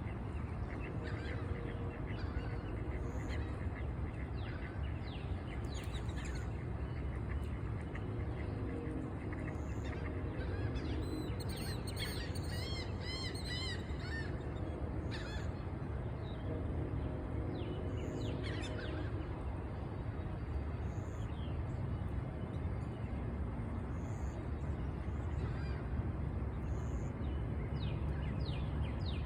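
Waterfowl at a pond calling in low honking series, with songbirds chirping over them and one fast trill of repeated notes near the middle. A steady low rumble runs underneath.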